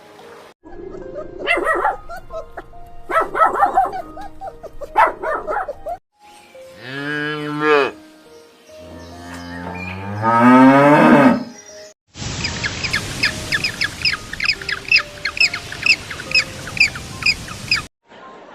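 Cattle mooing: two long moos, the second rising in pitch, after a few shorter animal calls. In the last third, after an abrupt cut, a high chirping repeats quickly, about three times a second.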